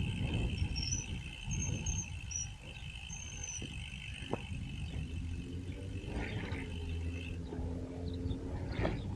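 Insects trilling steadily at a high pitch, with a few short bird chirps in the first few seconds, over a low rumble. The insect trill stops about seven seconds in as a low hum with several steady tones rises and fades.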